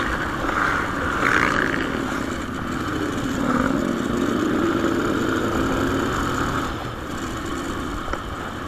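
Motorcycle running on the move, its engine note under a steady rush of noise.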